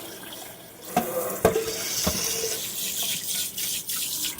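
Kitchen tap running water into a sink, with two sharp knocks about a second in.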